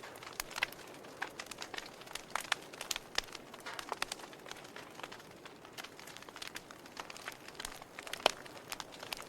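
Wood fire crackling: a steady low hiss with irregular sharp pops and snaps several times a second, one louder snap near the end.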